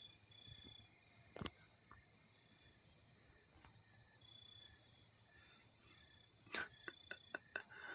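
Night insects, likely crickets, chirping faintly and steadily in a high, even trill. A sharp click comes about a second and a half in, and a quick run of light clicks comes near the end.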